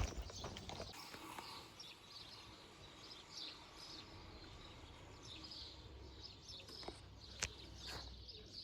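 Small birds chirping faintly and repeatedly in open countryside, with a sharp click at the very start and another about seven and a half seconds in.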